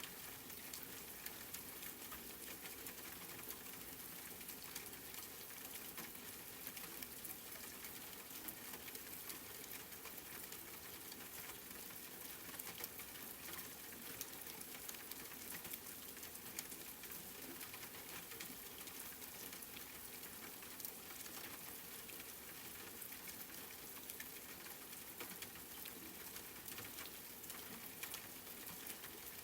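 Steady light rain pattering, with many fine drop ticks over a soft hiss.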